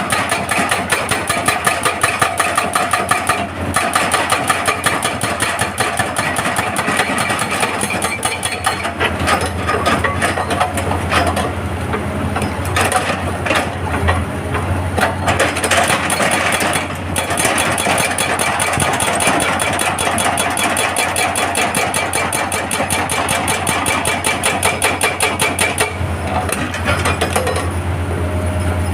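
Hitachi excavator's hydraulic breaker hammering rock in rapid, steady blows over the excavator's running diesel engine.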